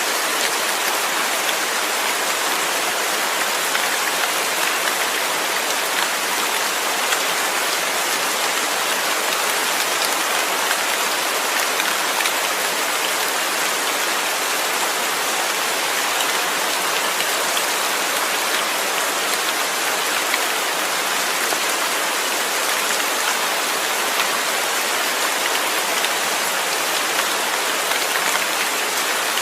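Steady rain: an even hiss with a fine patter of drops.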